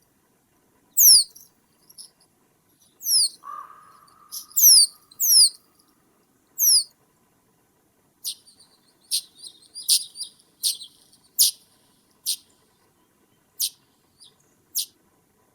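Small birds calling in a swamp: short, thin, high-pitched notes that slide downward, one every second or so, with a single lower, drawn-out call about three seconds in.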